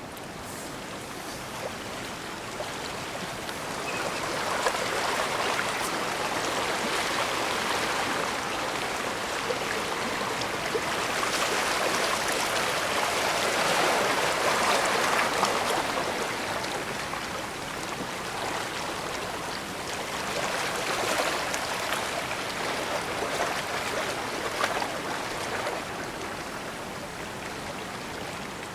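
Water washing at the shore of a bay: a steady rush that swells and eases over several seconds at a time, loudest in the middle of the stretch.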